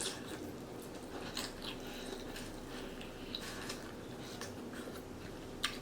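Faint close-up chewing and mouth sounds of someone eating, with scattered soft clicks and smacks over a low room hum.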